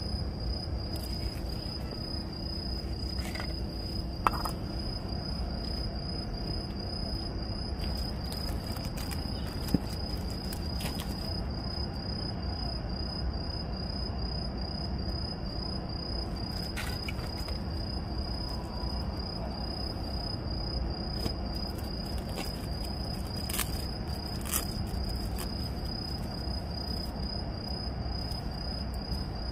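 A cricket trilling in a fast, steady, high-pitched pulse that never pauses, over a low background hum. A couple of sharp clicks stand out, about four and ten seconds in.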